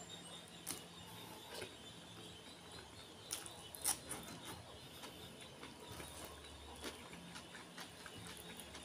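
Faint chewing and mouth clicks from eating a mouthful of fried rice by hand: small irregular clicks, the loudest about four seconds in.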